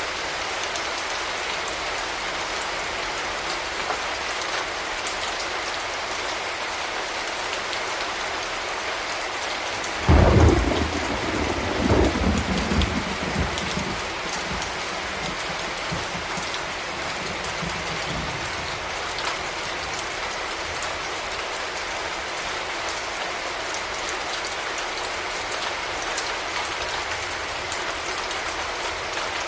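Steady rain falling, with a sudden clap of thunder about a third of the way in that rumbles on and dies away over several seconds.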